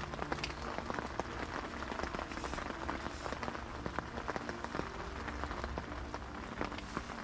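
Heavy rain falling, a dense, irregular hitting of many drops.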